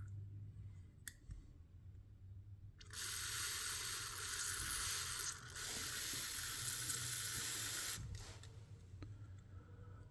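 A steady pressurised hiss blowing through the small passages of a lawnmower carburetor as they are cleaned out, starting about three seconds in, breaking off for a moment near the middle and stopping near the end. A couple of faint clicks come before it.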